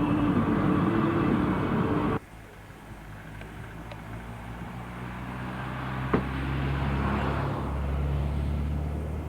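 A loud, busy sound cuts off abruptly about two seconds in. It is followed by a low, steady motor vehicle engine drone that slowly grows louder, with a single sharp click near the middle.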